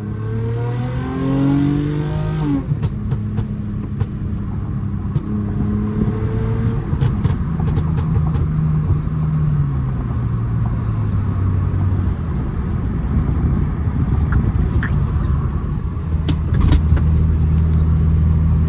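Straight-piped 3.5-litre V6 exhaust of a tuned 2009 Mercedes-Benz C350 on the move, its pitch rising as the car accelerates over the first few seconds. It then cruises and eases off, the pitch falling midway and settling into a lower, louder drone near the end, with light clicks and rattles.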